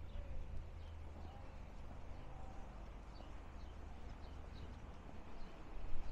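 Small birds chirping: short high chirps repeating every half second or so over a low, steady outdoor rumble.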